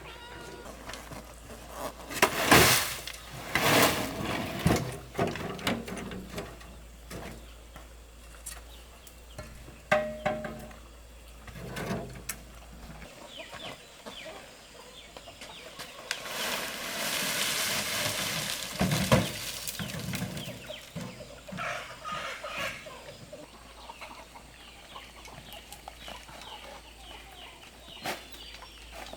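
Domestic fowl clucking, mixed with scattered sharp knocks and a stretch of rustling handling noise.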